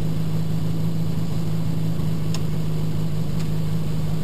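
Peugeot 106 XSi rally car's four-cylinder engine idling steadily at constant revs, heard from inside the cabin.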